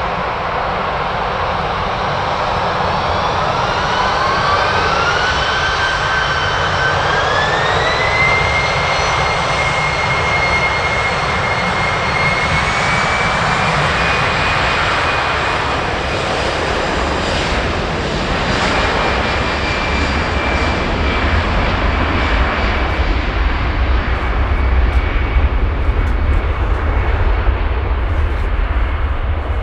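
Jet airliner engines running, their whine climbing in pitch in steps over the first several seconds and then holding steady, over a constant roar. A deep rumble swells near the end.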